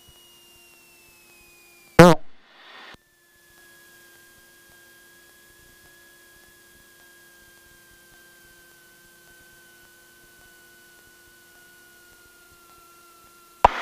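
Faint steady hum and thin tones in a light aircraft's intercom audio, with one whistle-like tone falling slowly in pitch. The hum is broken by a short loud exclamation about two seconds in and a loud burst of noise near the end.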